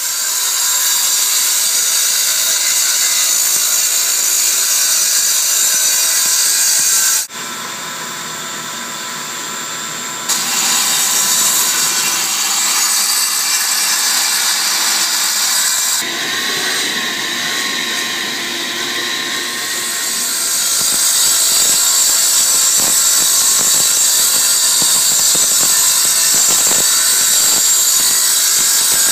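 Power saw cutting concrete: a loud, steady grinding whine. It drops away suddenly about seven seconds in, comes back about three seconds later, and eases off and rises again later on.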